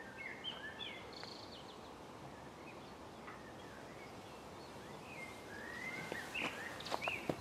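Small birds chirping in short, sliding calls over a steady outdoor hiss, with a few sharp clicks near the end.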